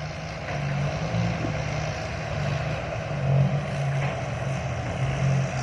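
Loaded diesel dump trucks climbing out of a pit one behind the other, their engines pulling steadily under load with a low, wavering hum.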